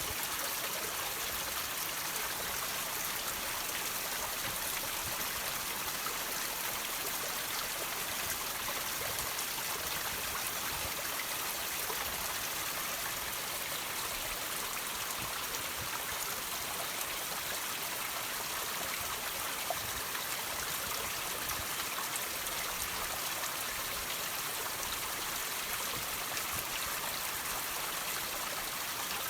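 Water trickling and dripping off rocks in a steady patter of many small drops over a continuous hiss of running water.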